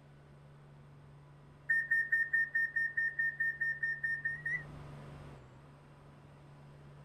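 Train door-closing warning: a rapid run of high beeps, about five a second for roughly three seconds, followed by a short hiss as the doors shut, over a steady low hum.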